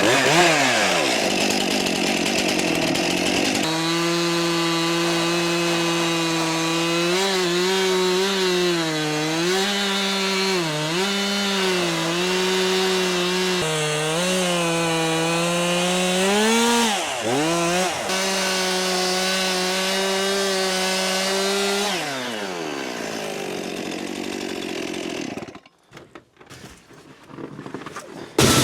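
Fuel-injected chainsaw at full throttle cutting through stacked firewood logs, its pitch dipping again and again as the chain bogs in the wood. It winds down, idles briefly and cuts off near the end, followed by a single sharp knock.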